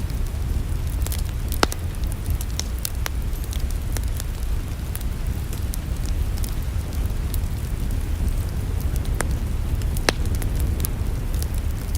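Wood fire in a fireplace crackling, with irregular sharp pops (the strongest about a second and a half in and near the end) over a steady low rumble.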